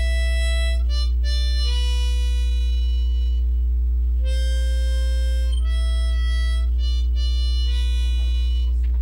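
Music: a slow melody of long held notes on a reed wind instrument, over a loud steady low hum.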